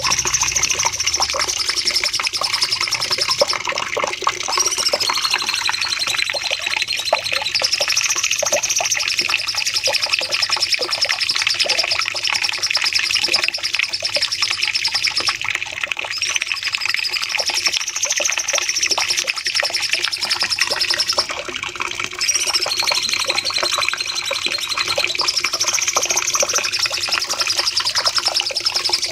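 Cucak cungkok songbird singing long, rapid, high-pitched trilling phrases almost without pause, with short breaks about every six to twelve seconds. This is a looped tutor ('masteran') recording of the bird's long 'nembak' song.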